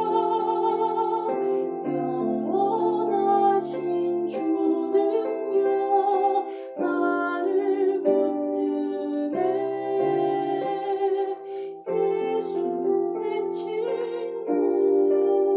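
A slow hymn sung by a woman to piano accompaniment, with held, wavering notes over sustained chords.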